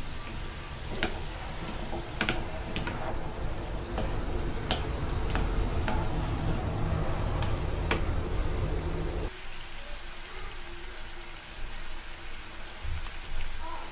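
Cubed squash sizzling as it sautés in an oiled pan, with a wooden spatula stirring and now and then clicking against the pan. About nine seconds in, the sound drops suddenly to a quieter, thinner sizzle.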